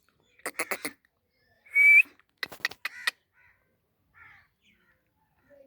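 A pet parrot's calls: a quick run of sharp clicky notes, then a loud harsh squawk with a short rising whistle about two seconds in, followed by another rapid string of clicks.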